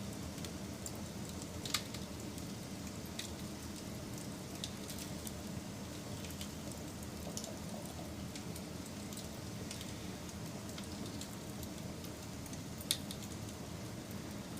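Wood fire burning with a steady low rush and scattered crackles, two sharper pops standing out, one about two seconds in and one near the end.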